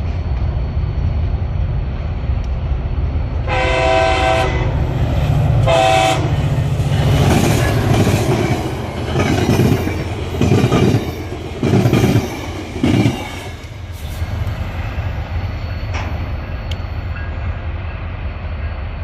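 FrontRunner commuter train passing: a steady low rumble, two horn blasts about four and six seconds in (the second shorter), then the wheels clacking over rail joints at a steady beat of about one clack a second before the rumble settles.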